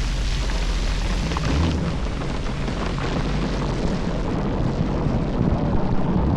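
Sea-Doo jet ski running underway, a steady engine drone under a heavy rush of wind and water spray on the microphone. The engine note shifts a couple of times.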